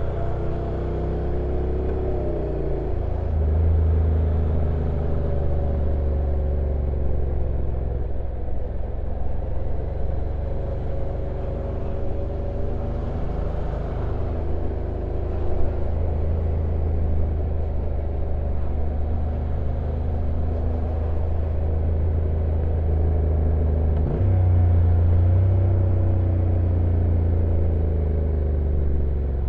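Stock Honda NC750X's 745 cc parallel-twin engine running on a downhill ride, its note gliding up and down with speed over wind and road noise. The engine note changes abruptly twice, about 3 seconds in and near 24 seconds, as the DCT dual-clutch gearbox changes gear.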